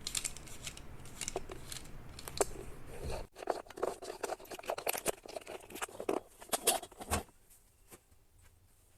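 Handling noise from working on the bidet's water line fittings: irregular small clicks, scrapes and rustles of plastic and metal parts. The sound breaks off abruptly about a third of the way in, resumes, and dies away about seven seconds in.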